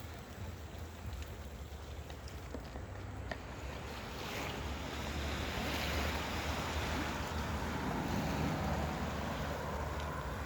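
Sea waves washing ashore, swelling louder about four seconds in, with wind rumbling on the microphone.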